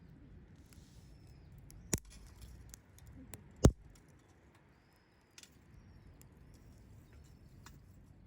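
Wood fire burning with scattered small crackles and two sharp pops, about two seconds in and a little before four seconds in, the second the loudest, over a low steady rustle.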